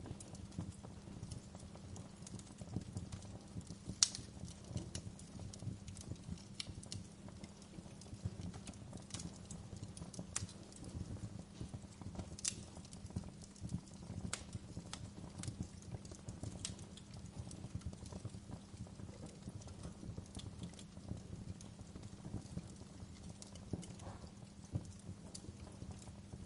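Fireplace crackling: a steady low bed of fine crackle with irregular sharp pops and snaps every second or two, the loudest about four seconds in.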